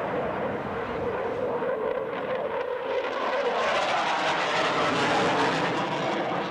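Airplane engine noise overhead, growing louder and brighter about halfway through as the aircraft draws nearer, then easing slightly near the end.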